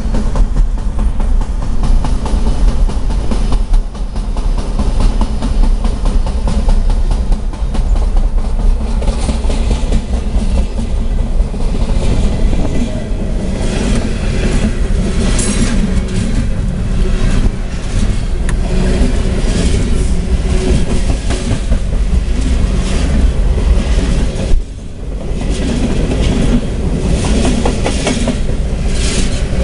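CSX Tropicana juice train of refrigerated boxcars rolling past close alongside, its wheels clattering over the rail joints under a heavy steady rumble. Heard from inside a moving car, with a brief lull about 25 seconds in.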